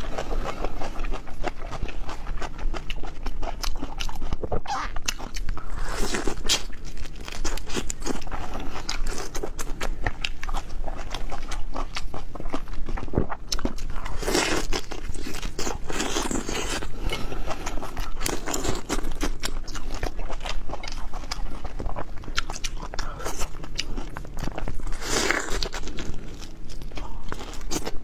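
A person chewing and biting into food, miked up close: continuous wet crunching and crackling, with louder bites about halfway through and again near the end.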